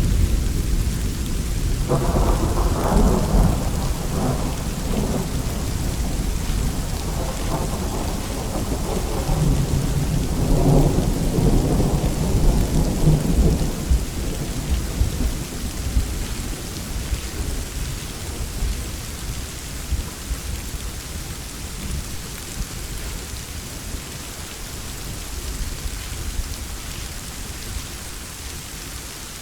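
Steady rain hissing, with a long roll of thunder rumbling through the first half that dies away about halfway, leaving the rain alone and slowly quieter.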